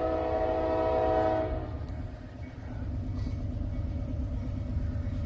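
Norfolk Southern diesel locomotive's air horn holding a steady chord that stops about a second and a half in, leaving the low rumble of the passing train.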